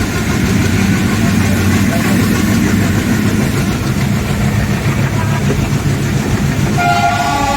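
Indian Railways ALCO diesel locomotive and its train running with a steady low drone. Near the end the locomotive's horn starts to sound, a chord of several tones.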